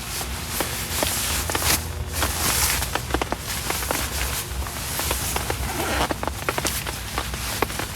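Heavy rain falling steadily, with many sharp, irregular drop impacts ticking on a nearby surface.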